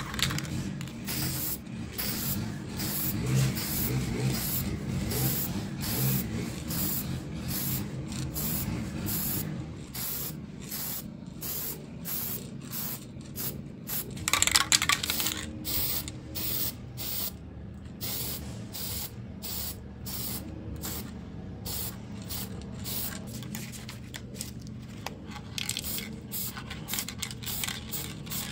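Aerosol spray can of walnut wood toner hissing in many short bursts, with a louder, longer burst about halfway.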